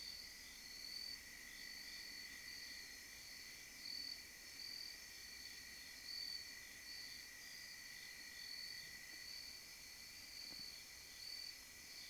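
Crickets chirping: a faint steady trill with a higher chirp pulsing about twice a second.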